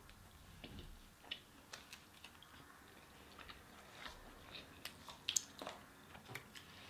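Faint chewing of a double cheeseburger with scattered soft clicks and crackles, several close together about five seconds in.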